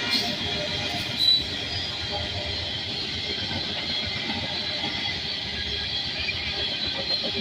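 Norfolk Southern freight train rolling past: a steady rumble and rush of wheels on rail, with a short high wheel squeal about a second in.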